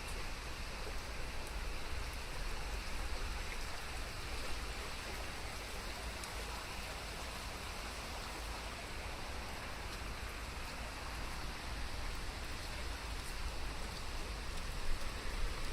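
Steady rainfall, with scattered individual drops ticking through a continuous hiss and a low rumble underneath.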